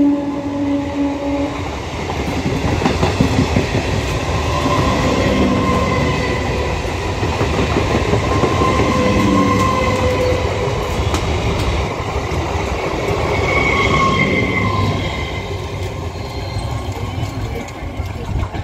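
Indian Railways suburban EMU local train passing through a station at speed. Its horn cuts off about a second and a half in, and then the coaches rush past with wheels clattering over the rail joints and high squealing tones, easing off near the end as the train goes by.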